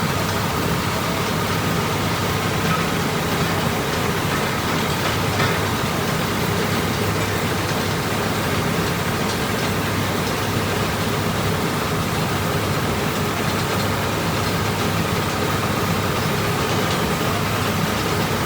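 Truck engine running steadily with a constant low hum.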